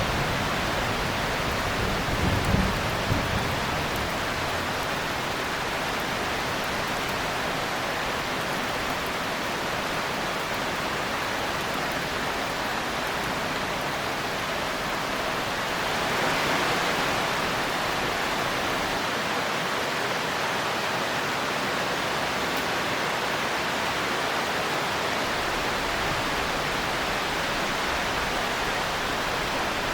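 Steady heavy rain falling in a forest, an even hiss, with a brief low rumble of distant thunder about two to three seconds in and a swell in the rain around the middle.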